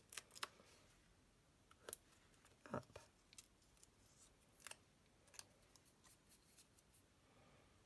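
Faint, scattered clicks and taps of paper card being handled and pressed down while mounting a piece on foam dimensionals.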